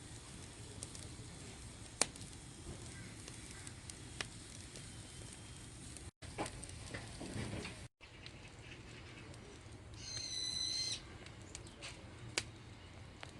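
Wood fire crackling, with scattered sharp pops, the loudest about two seconds in. About ten seconds in, a high, even, whistle-like call lasts about a second.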